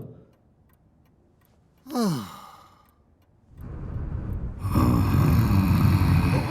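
A cartoon character's short sigh, falling steeply in pitch, about two seconds in. From about three and a half seconds a loud, dense noise swells up and carries on.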